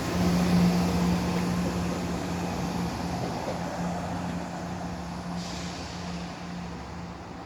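Class 170 Turbostar diesel multiple unit pulling away under power, a steady low diesel engine drone that slowly fades as the train draws off.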